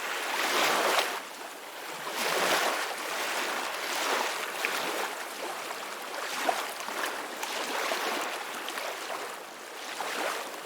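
Ocean waves breaking and washing ashore, a hiss of surf that swells and ebbs every couple of seconds.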